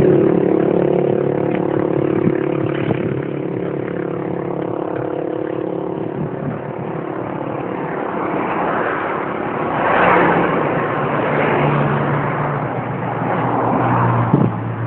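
Road traffic passing a cyclist: a motor vehicle's engine hum fading away over the first few seconds, then vehicles swelling past, about ten seconds in and again near the end.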